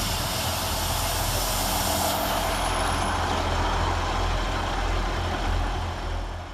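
ScotRail Class 158 diesel multiple unit running through the station, its underfloor diesel engines droning low under a steady rushing noise, fading near the end.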